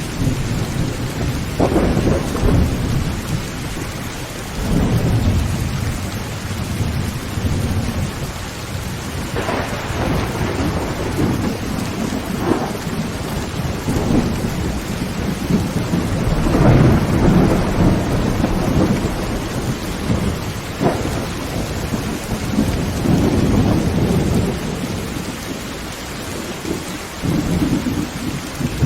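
Heavy rain drumming on a tin roof in a steady hiss, with thunder rumbling again and again underneath and sharper cracks now and then.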